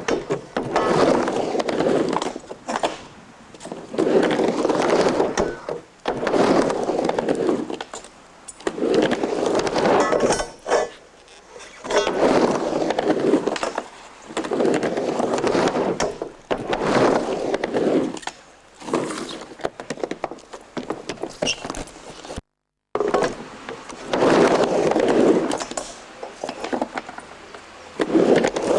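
Skateboard wheels rolling back and forth across a mini ramp: a loud rumble swells and fades about every two seconds as the skater rides up and down each side, with occasional sharp knocks and clacks of the board. The sound cuts out for a moment about two-thirds of the way through.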